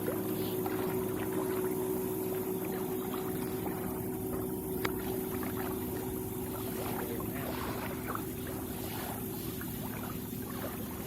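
A boat's engine running at a steady pitch, with wind and water noise around it.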